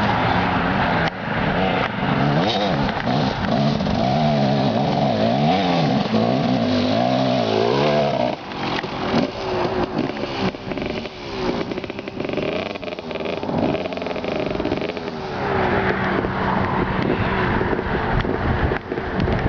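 KTM dirt bike engine revving up and down under load on a hill climb, its pitch rising and falling over and over. About eight seconds in it drops quieter and goes uneven, then it picks up into a steadier, higher note for the last few seconds.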